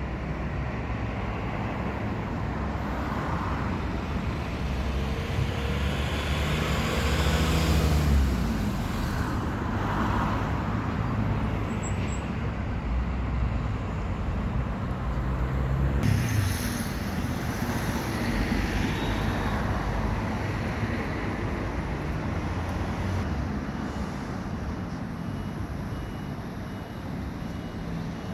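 Road traffic going by: a steady rumble of passing vehicles that swells as they pass, loudest about eight and again about sixteen seconds in.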